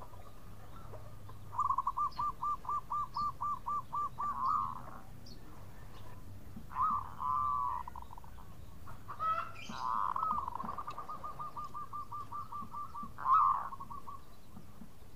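Zebra dove (perkutut) singing its cooing song: a rapid run of short, even coos, about four a second, ending in a rising note. A brief phrase follows, then a longer, faster run of coos that closes with the loudest note near the end.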